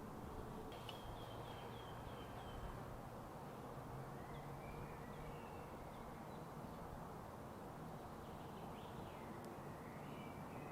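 Forest birds calling over a steady low background hiss: a quick run of about seven short, high notes about a second in, then scattered chirps.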